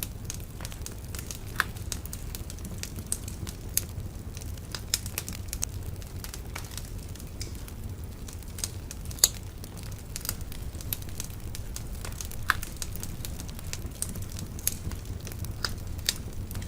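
Wood bonfire burning: a steady low rumble of flames with frequent sharp, irregular crackles and pops, the loudest about nine seconds in.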